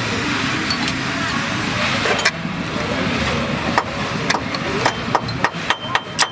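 Steady mechanical noise with scattered clicks. From about five seconds in, a run of quick, evenly spaced hammer blows sets in, roughly four a second.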